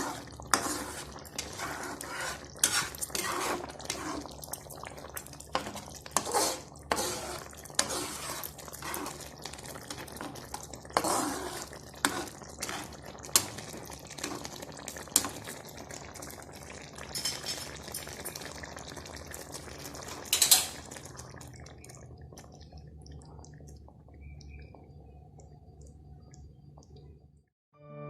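A spoon clinking and scraping against a cooking pot, with the wet sloshing of thick coconut-milk curry gravy, in a series of irregular knocks. The clatter stops about three quarters of the way through, leaving a faint steady hum.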